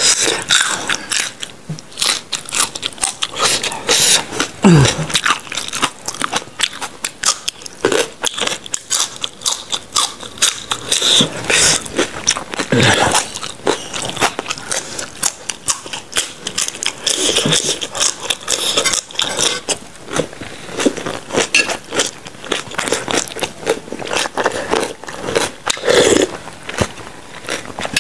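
Close-miked crunching and chewing of raw vegetables, cucumber among them: a dense run of crisp bites and crackles, with a few louder bites.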